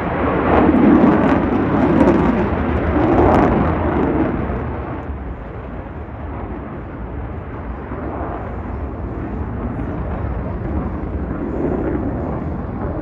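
Jet noise from an F-35A Lightning II's afterburning turbofan engine during a flying display: a loud, rough rush of noise that surges a few times over the first four seconds, then eases to a lower, steady rumble as the jet draws away.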